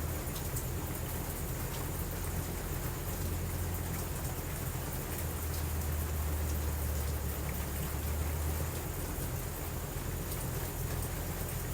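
Steady rain, with a constant low rumble beneath it and faint scattered ticks.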